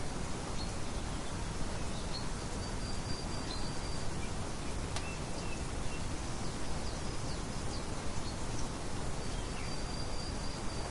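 Birds chirping: scattered thin, high whistled notes and short chirps, two notes held for about a second, over a steady hiss of outdoor nature ambience.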